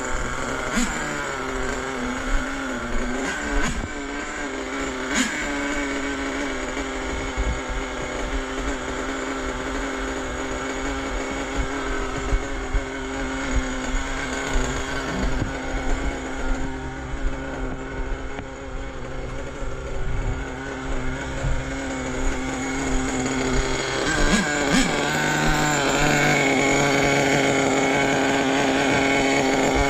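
Small nitro glow engine of an RC truck idling on its own, with the idle turned up. The pitch wavers during the first few seconds, then the engine runs fairly steadily, and it shifts to a slightly higher, busier note near the end.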